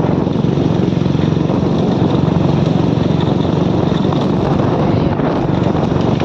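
Motorcycle engine running steadily while riding, with a continuous rush of road noise.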